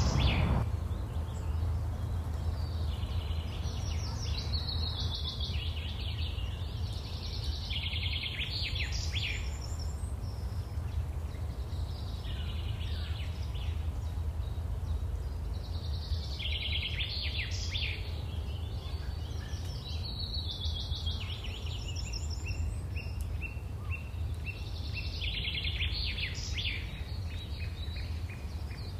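A songbird singing short, fast trilled phrases that recur every few seconds, over a steady low rumble of background noise.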